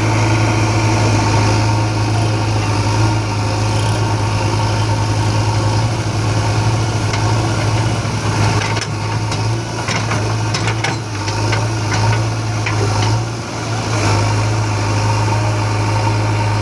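Diesel tractor engine idling steadily, a constant low hum, with a few light clicks and rattles in the middle.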